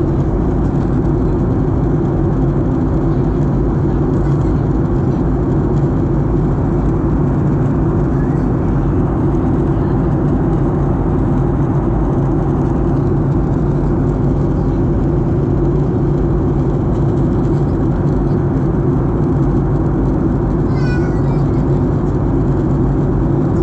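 Boeing 737-800 cabin noise: a steady, loud drone of the engines and rushing airflow, with a low, even hum underneath.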